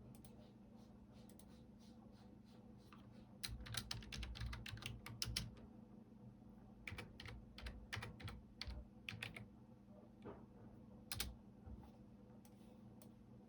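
Computer keyboard typing in short bursts: a few scattered keystrokes, then a quick run of keys, a pause, a slower run, and a single louder key press near the end.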